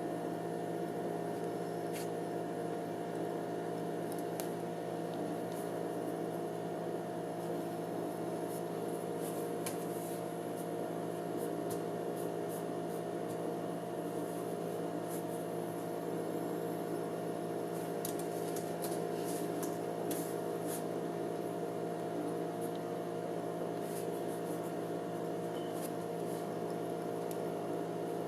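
Hand-spun gyroscope spinning steadily: a constant hum of several steady tones, with faint light ticks scattered through, most of them in the middle.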